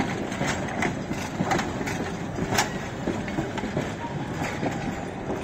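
Railroad passenger coaches rolling past, their steel wheels clicking over the rail joints over a steady rumble, with one sharper click about two and a half seconds in.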